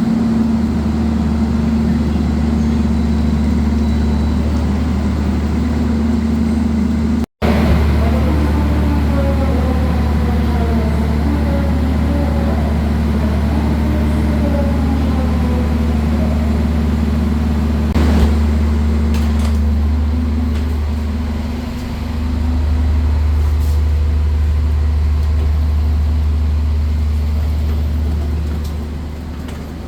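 Diesel locomotive engine idling with a loud, steady low hum. Slowly falling tones sound in the middle, and a single metallic clank comes about two thirds of the way through.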